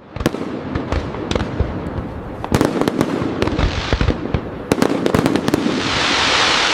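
Fireworks display: a steady run of sharp aerial bangs and booms over dense crackling, with clusters of rapid reports about two and a half and five seconds in, and a swelling crackle near the end.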